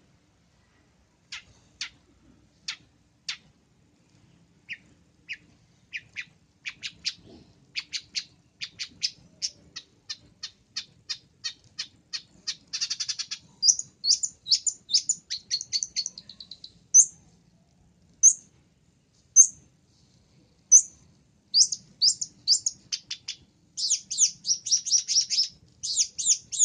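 Long-tailed shrike calling: sharp, harsh, high notes that start a second or so apart and quicken into a fast chatter, then a handful of separate high down-slurred notes, and another rapid chatter near the end.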